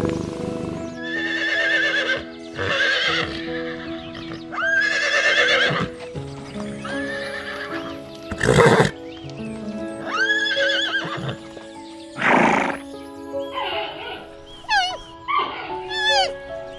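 Horse whinnying again and again: a series of wavering neighs, shorter ones near the end, with two short noisy blasts in between. Soft background music runs underneath.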